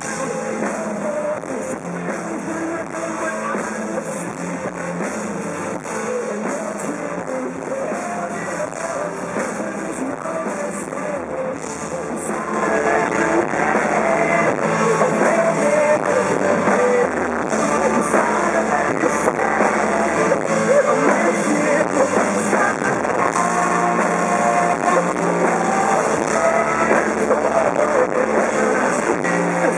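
Live rock band playing: guitars, drums and bass, building up and getting louder and fuller about twelve seconds in.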